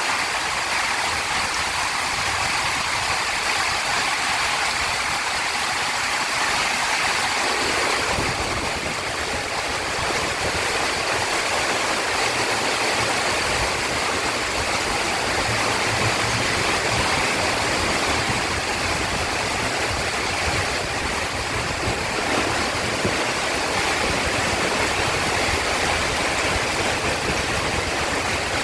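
Heavy rain pouring steadily, an even rushing hiss. About eight seconds in, a low rumble joins beneath it.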